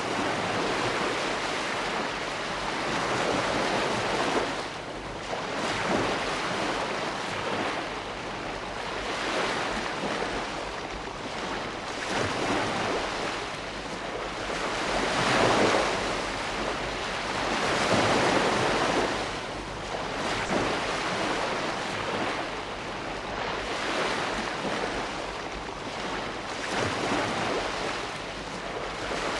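Ocean waves breaking and washing on the shore, a steady surf with swells every few seconds, the biggest about halfway through.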